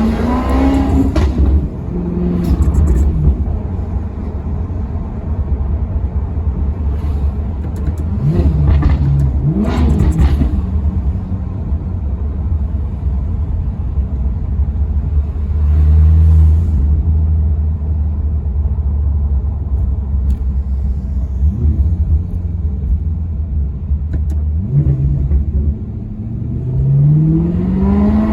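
Maserati Quattroporte V8 engine with a deep, steady rumble, blipped up in revs several times. Near the end it climbs steadily in pitch as it revs up or accelerates.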